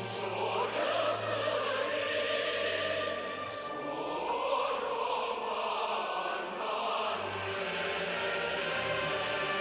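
Choral music: many voices singing held notes over an accompaniment with a moving bass line.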